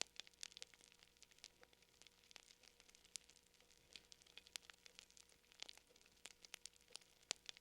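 Faint crackling fire: irregular small pops and snaps, several a second, over a soft hiss.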